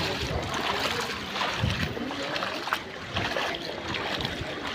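Water splashing and lapping, with faint voices in the background.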